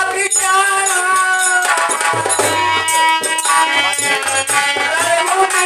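Kirtan-style devotional bhajan music: a sustained melody over repeating hand-drum beats and a steady jingling, rattling percussion.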